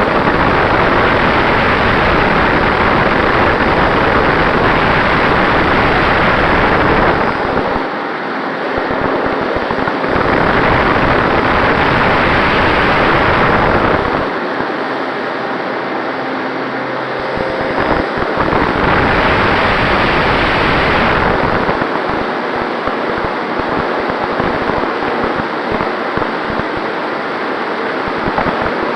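Wind rushing over the microphone of a RunCam 2 action camera on a radio-controlled airplane in flight, with the airplane's propeller running underneath. The noise eases and its low rumble drops out three times for a few seconds, about eight, fourteen and twenty-two seconds in.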